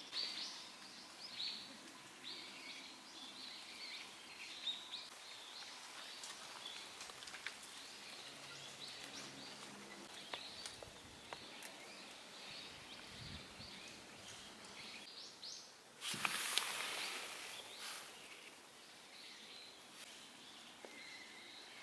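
Quiet outdoor ambience with small birds chirping in the background and a few faint clicks and knocks. About sixteen seconds in, a louder rushing, rustling noise lasts a second or two.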